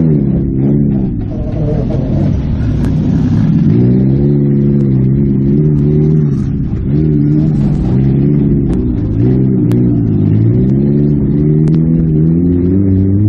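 Toyota Matrix four-cylinder engine revving up and down over and over under the driver's throttle, heard from inside the stripped cabin. A few sharp knocks and rattles from the car body come through.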